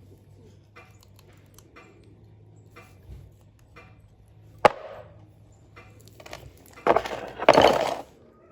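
Workshop handling noises: scattered light clicks, a single sharp knock about halfway through, then a second or so of loud rattling and scraping near the end.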